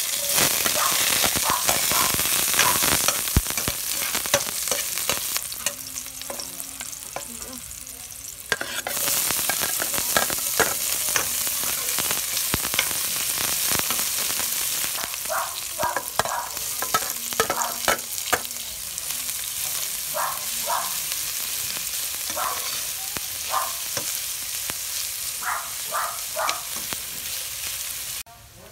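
Garlic, onion and ginger sizzling in hot oil in a stainless steel pot, stirred with a spatula that scrapes against the pot. The sizzle starts loud as the garlic goes in, eases off a few seconds later, and surges again about nine seconds in.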